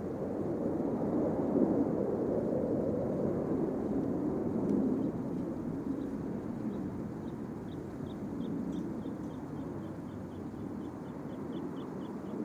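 Low, steady rumble of jet noise from a Blue Angels jet, swelling over the first couple of seconds and then easing off slowly. In the second half a run of faint, short high chirps sounds over it, coming faster and faster.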